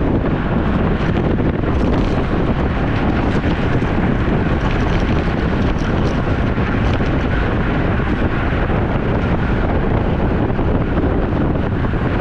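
Wind rushing over the microphone of a camera riding on a road bicycle: a loud, steady roar that does not let up.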